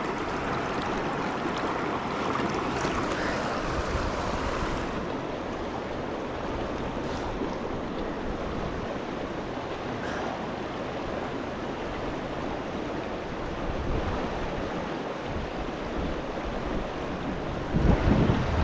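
Steady rush of a rocky mountain river's running water. Near the end comes a brief, louder low buffeting.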